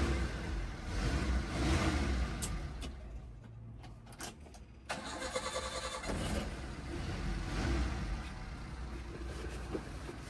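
Daihatsu Espass pickup's 1.3-litre engine running, then dying away for about two seconds. About five seconds in it is cranked and starts again, settling to a steady idle.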